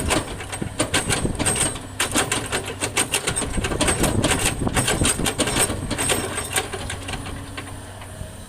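Fill dirt and stones clattering into a dump truck's steel bed as it is loaded, over a steady engine hum. The clatter is densest in the middle and tapers off toward the end.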